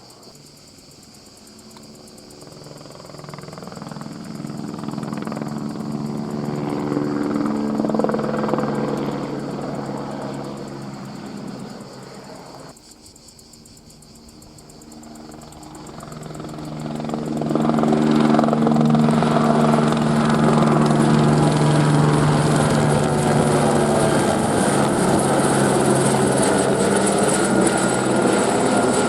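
Airbus AS350 single-engine helicopter flying past, its rotor and turbine growing louder over several seconds and then fading. An abrupt cut about 13 seconds in, then it approaches again and stays loud near the end.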